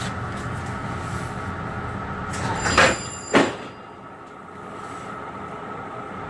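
Steady electrical hum of a Metro-North commuter train standing at a station platform. Two short, loud bursts a little over half a second apart come near the middle, and the hum is quieter after them.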